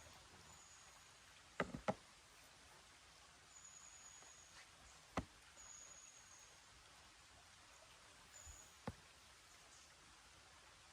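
Quiet forest ambience: faint high, thin calls come five or six times, each under a second long. A few sharp clicks stand out: two close together about a second and a half in, then single ones about five and about nine seconds in.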